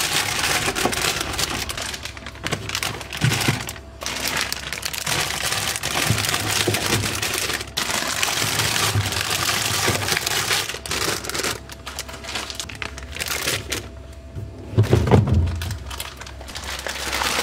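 Plastic food storage bags crinkling as they are handled, on and off with short pauses.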